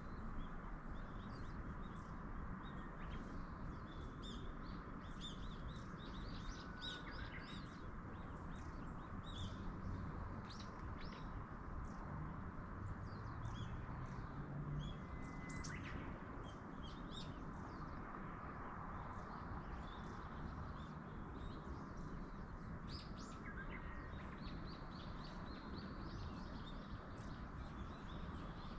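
Small wild birds chirping and calling in many short, high chirps throughout, over a steady background rush.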